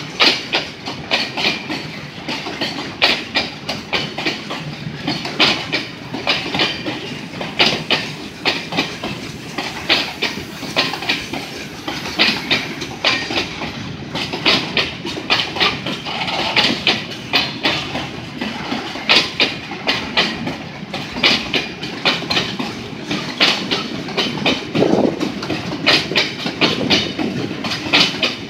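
Freight wagons rolling past close by: steel wheels clacking over the rail joints in an unbroken run of sharp clicks over a steady rumble.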